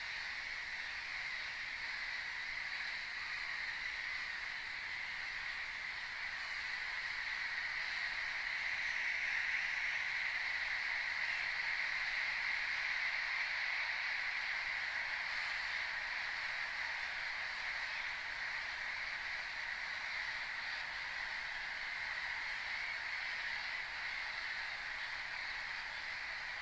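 Continuous din of a large waterbird colony calling, with many voices blending into one steady chatter and no single call standing out. It swells slightly around the middle.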